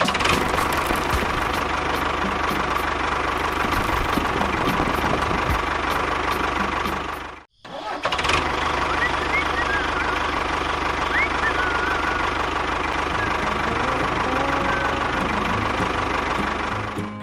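Small engine running steadily, broken by a brief cut to silence about seven and a half seconds in.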